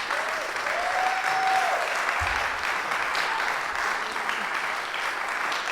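Audience applauding steadily, with a single voice cheering briefly in the first two seconds.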